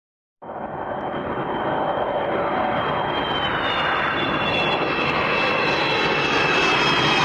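Jet aircraft engine running, a loud rushing noise with a high turbine whine that slowly falls in pitch while the sound grows louder. It starts suddenly just after the beginning.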